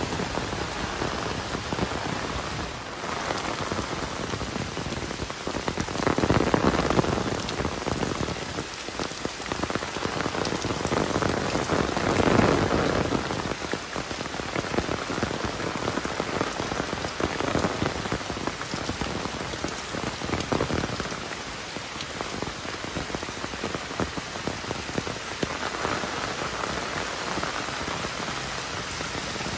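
Heavy rain falling steadily, swelling louder for a moment about six seconds in, again about twelve seconds in, and a little near the end.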